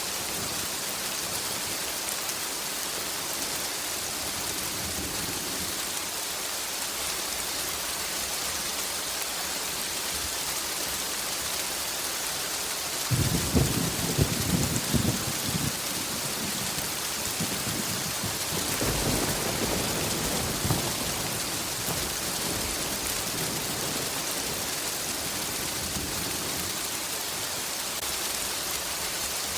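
Steady heavy rain with a clap of thunder rumbling in near the middle, followed a few seconds later by a softer second roll of thunder.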